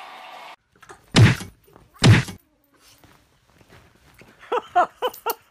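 Two heavy thuds about a second apart, followed near the end by a few short, quick pitched vocal calls.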